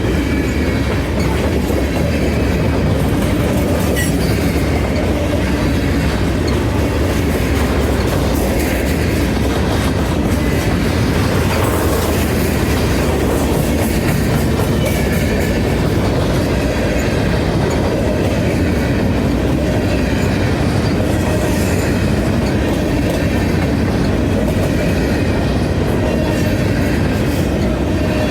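Freight train passing close by: a steady, loud rumble of cars rolling over the rails, with wheels clicking over rail joints and a faint high wheel squeal at times.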